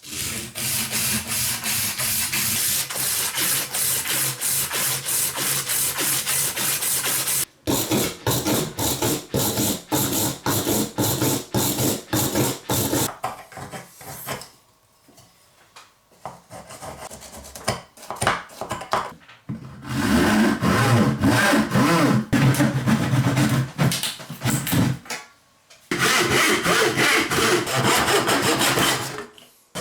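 Hand tool worked rapidly back and forth on wood, rasping or cutting with repeated strokes. It comes in several runs of steady strokes with short breaks between them, one stretch in the middle quieter.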